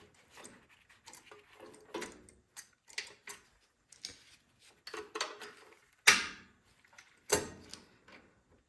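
Small metal clicks and taps of hands and a screwdriver working at a carburetor and its mounting bolts on a small engine, with two louder sharp knocks about six and seven seconds in.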